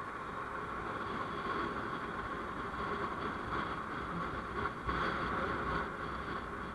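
Steady vehicle driving noise, a mix of engine and road, getting slightly louder about five seconds in.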